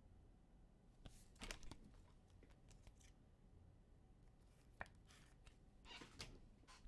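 Near silence, with a few faint, brief rustles and clicks of trading cards and packs being handled, about a second in, again near five seconds and once more near six.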